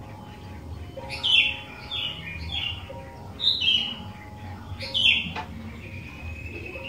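Sooty-headed bulbul (kutilang) singing: a run of short, falling whistled notes roughly every half second, then a longer, nearly level whistle in the last second and a half.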